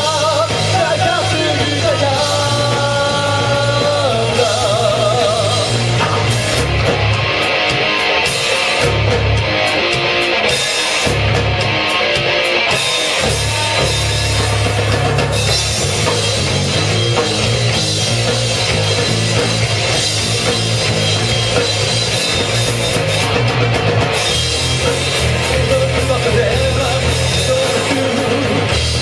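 Live rock band playing, with singing over electric band instruments and a drum kit.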